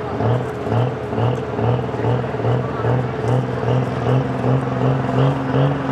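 A pulling truck's engine running hard at high revs under load, its note surging and fading about twice a second. A steadier, higher engine tone joins about four seconds in.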